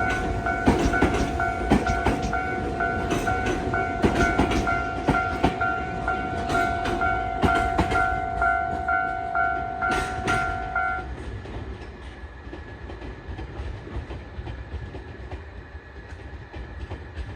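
Tobu Urban Park Line electric train running over rail joints, its wheels clicking in a repeated clickety-clack over a rumble. A steady two-note ringing tone, the upper note pulsing, sounds over it and stops about eleven seconds in. After that the train sound fades.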